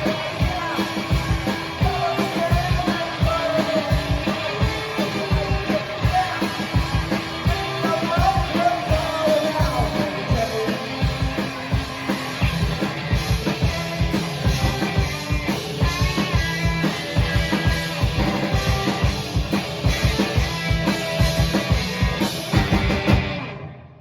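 Rock band playing with drum kit and singing, with a steady, driving drum beat throughout; the song ends abruptly shortly before the end.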